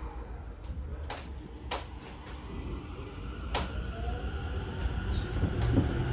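Doors on a Tokyo Metro 05 series train shutting with a few sharp knocks. Then the faint rising whine of its Mitsubishi IGBT-VVVF inverter and a growing low rumble as the train starts to pull away.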